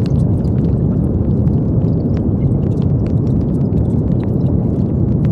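Steady brown noise: a deep, even hiss with most of its weight in the low end, with faint scattered ticks above it.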